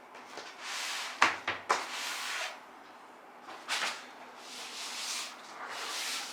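A delivery parcel being handled and opened: rustling of packaging in several stretches, with a few sharp knocks close together about a second in.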